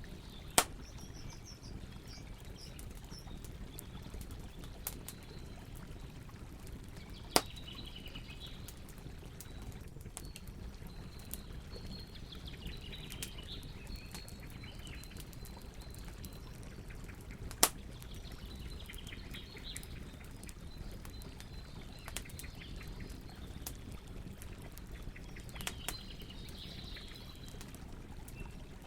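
Campfire burning with a steady low rustle and scattered crackles, three of them sharp loud pops. Small birds chirp and twitter on and off in the background.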